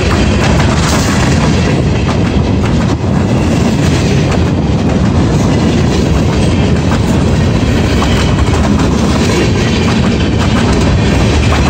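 Freight train rolling past at a grade crossing, its wheels clattering steadily over the rail joints.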